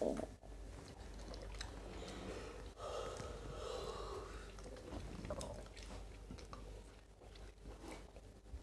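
Close mouth sounds of eating snakehead fish and rice by hand: chewing and biting, with small crunches and clicks.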